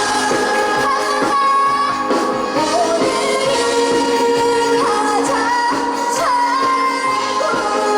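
Trot song performed live: a girl singing over a backing track, holding long wavering notes.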